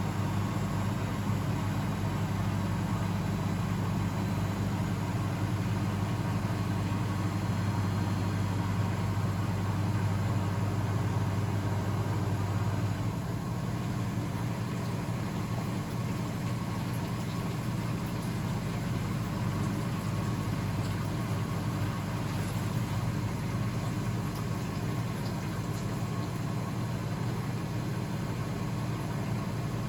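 Blomberg WAF 7442 SL washing machine running with a steady low hum; about thirteen seconds in, part of the hum drops away and it runs on a little quieter.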